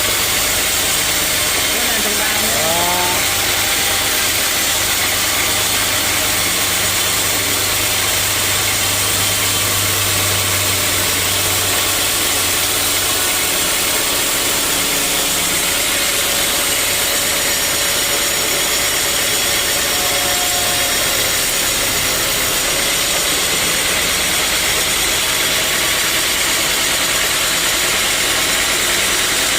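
Sawmill machinery running steadily with a loud, even noise; a low hum under it fades out about halfway through.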